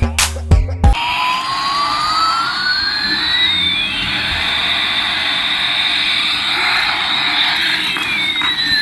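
Toy's electronic jet-engine sound effect: a steady hiss with two whining tones, one rising and one falling, that meet partway through and then part again. It starts just after a burst of music ends, about a second in.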